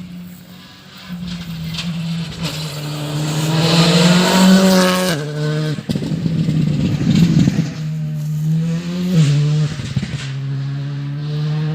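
Rally car engine at high revs as the car passes at speed. The note climbs to a peak about four to five seconds in and drops sharply, runs rough and crackling for a second or two, then settles into a steady pull.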